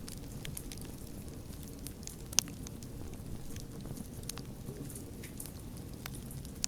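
Wood fire burning with a steady low rumble and scattered crackles, one sharp loud pop about two and a half seconds in.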